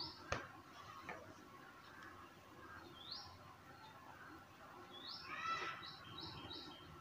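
Faint bird chirping: a few short rising chirps, then a fuller call with a quick run of short notes near the end. A single sharp click comes just after the start.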